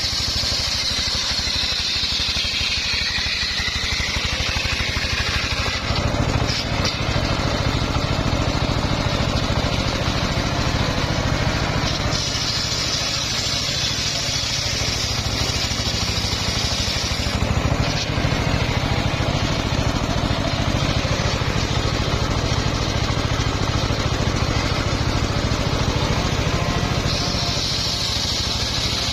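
Engine-driven home-built circular sawmill running under load while its blade rips a hard old mahogany log. Beneath it runs a steady engine throb, and a high whine from the cut comes and goes, strongest near the start, in the middle and near the end.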